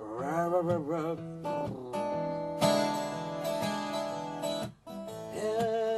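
Acoustic guitar accompanying a bard song, with a strong strummed chord about two and a half seconds in. A voice sings a wavering wordless line at the start and again near the end.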